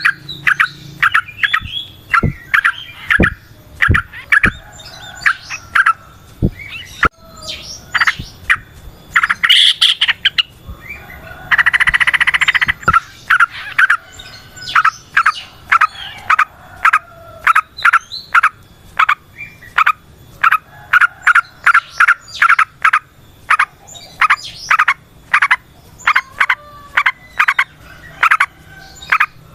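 Yellow-vented bulbul (trucukan) singing: a long run of short, quick bubbling notes with brief pauses between phrases, and a harsh buzzy note of about a second roughly halfway through.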